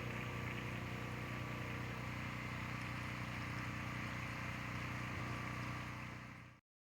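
A motor running with a steady low hum, fading away to silence near the end.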